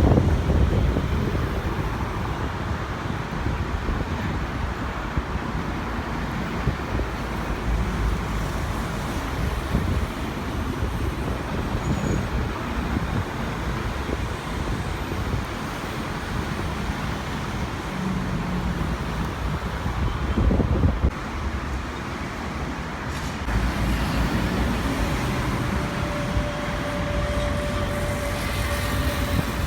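Steady low rumble of distant engines, like traffic noise, with a faint steady whine coming in about 25 seconds in.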